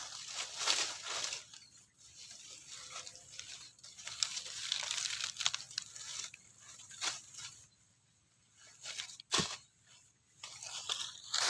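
Irregular rustling and crinkling handling noises with a few sharp clicks.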